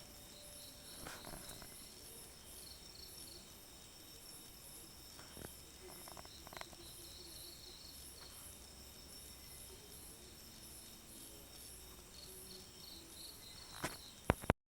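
Insects chirping steadily in an even, repeating high-pitched pulse, with a few faint clicks and two sharper clicks near the end.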